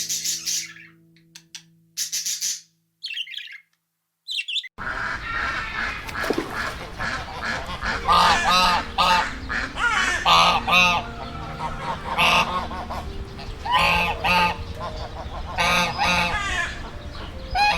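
Geese honking repeatedly in loud clusters over a steady outdoor background noise, starting about five seconds in. Before that come a few short high bird chirps as background music tones fade out.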